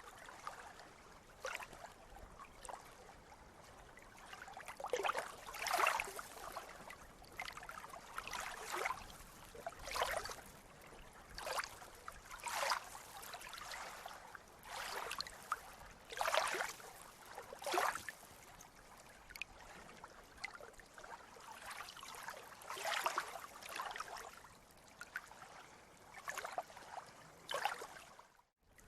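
Sea water lapping and splashing in small irregular sloshes every second or two over a steady wash, cutting out briefly near the end.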